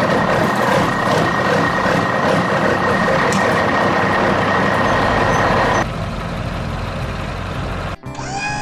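Heavy truck or construction-machine engine sound effect: loud running noise with a steady whine that drops to a quieter low rumble about six seconds in, then a short rising whine near the end.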